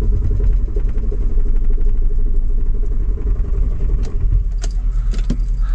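Diesel engine of the RV being cranked by the starter, turning over quickly and evenly without catching for about three seconds: the diesel fuel has gelled in the cold. A steady low rumble runs underneath, and a few sharp clicks follow after the cranking stops.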